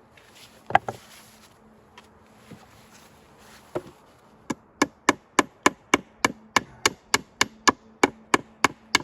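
Hammer knocking nails back out of old wooden boards: a couple of single blows, then from about four and a half seconds a steady run of about three blows a second.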